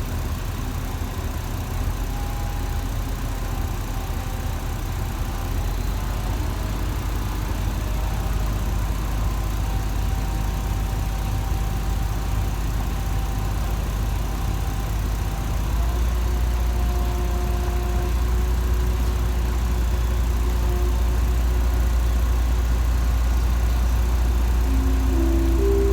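Diesel train engine running steadily with a deep low hum. It steps up in loudness about 16 seconds in and keeps building, as the train works to pull away from the station.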